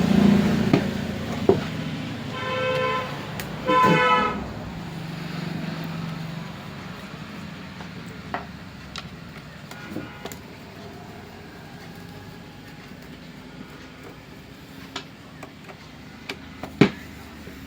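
Traffic noise with a vehicle horn honking twice, a couple of seconds in and again about a second later, then scattered clicks and knocks as the background grows quieter.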